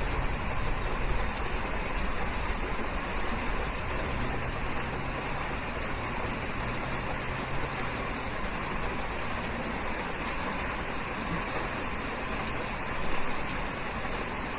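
Steady rain falling, an even hiss of drops with a low rumble underneath, swelling briefly near the end.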